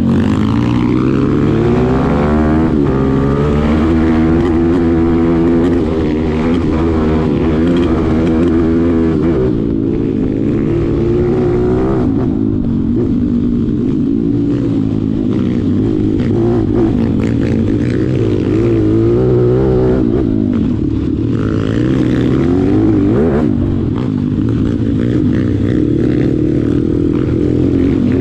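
Malcor XM 160 pit bike's 160 cc single-cylinder four-stroke engine being ridden hard over a dirt track. The revs rise and fall again and again, in repeated climbs and drops in pitch, as the rider accelerates, shifts and backs off.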